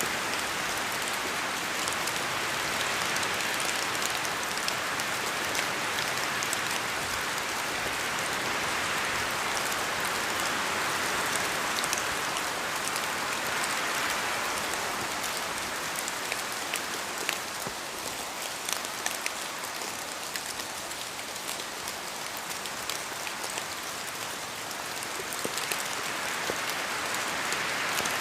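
Steady rain falling in a forest, its hiss slowly swelling and easing, with scattered sharp ticks of drops falling from the trees. The rain eases a little past the middle, where the single drops stand out more, then builds again near the end.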